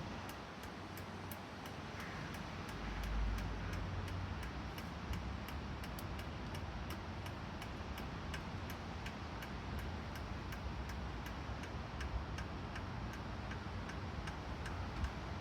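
Small Heinrich hot air (Stirling-type) stationary engine running, with an even light clicking of about four clicks a second over a steady hiss. There is a brief low rumble about three seconds in.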